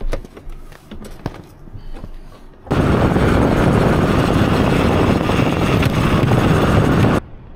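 Loud wind rush buffeting the microphone of a camera mounted on a moving motorcycle. It starts abruptly about three seconds in, runs for about four and a half seconds and cuts off suddenly. Before it come a few light clicks and knocks.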